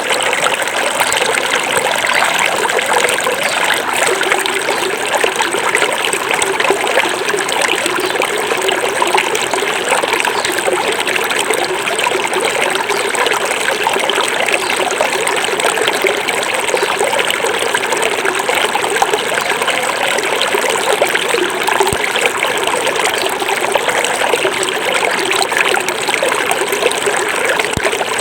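Small forest stream flowing steadily over rocks, a continuous babble of trickling and rushing water.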